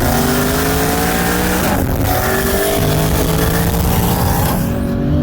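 Turbocharged race-built cars at full throttle in a 60 mph roll race, engine notes climbing steadily in pitch. The sound dips briefly about two seconds in.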